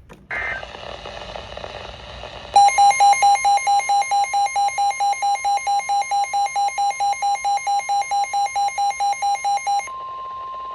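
NOAA Weather Radio alert for a severe thunderstorm warning. After a couple of seconds of radio hiss, the receiver's alarm beeps rapidly, about four beeps a second, over the broadcast's steady warning alarm tone. The beeping stops about ten seconds in, leaving the steady tone alone.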